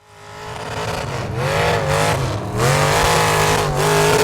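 Pickup truck engine revving hard, fading in. Its pitch climbs and drops back about every second, as in a mud-bog run.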